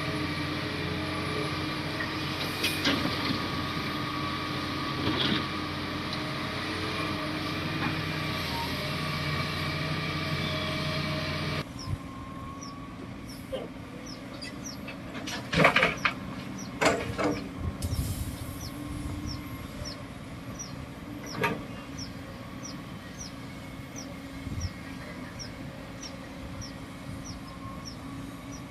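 Bulldozer diesel engine running steadily, cutting off abruptly about twelve seconds in. After it comes a quieter stretch with a high chirp repeating regularly, a little more often than once a second, and a few sharp knocks.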